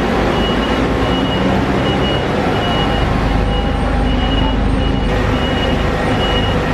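Road vehicle running steadily, heard from inside, with a short high electronic beep repeating about every two-thirds of a second.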